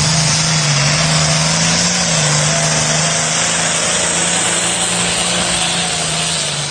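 A pulling tractor's engine running hard at high throttle: a loud, steady drone with a slight wobble in pitch, dropping lower right at the end.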